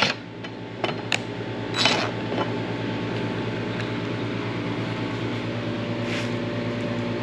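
Steady machine hum, like a fan or motor, with a few light clicks and knocks in the first two seconds.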